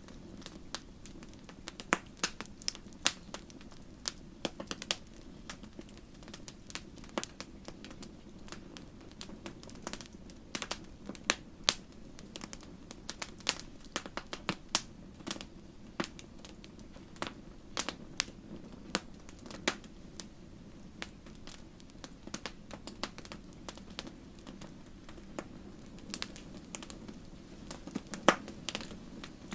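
Campfire crackling: irregular sharp pops and snaps of burning wood, several a second, over a low steady rush of flame.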